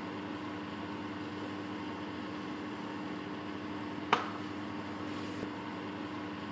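A steady mechanical hum with a constant low tone, and one sharp tap that rings briefly, metal-like, about four seconds in.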